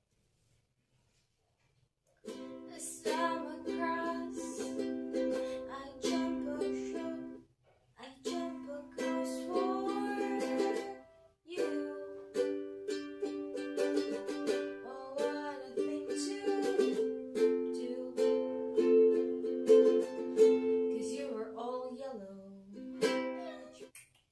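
Ukulele strummed in chords, coming in about two seconds in and breaking off briefly twice between phrases.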